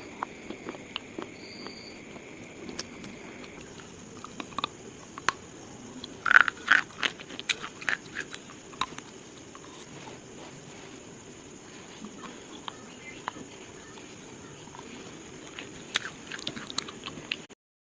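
Pieces of slate being crunched and snapped, in scattered sharp cracks with a louder cluster about six seconds in and another near the end.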